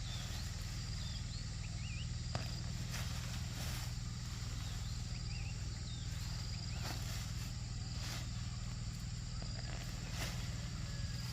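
Small birds chirping in short, repeated calls over a steady low hum and hiss, with a few soft knocks.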